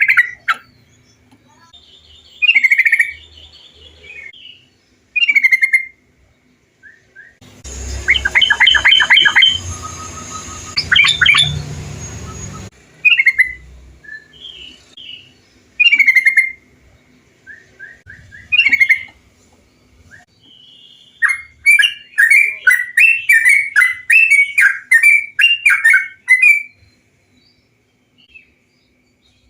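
Yellow-vented bulbul (trucukan) calls: short bubbly notes every few seconds. There is a quick chattering run over background hiss about a third of the way in, and a longer rapid run of chattering song phrases in the second half.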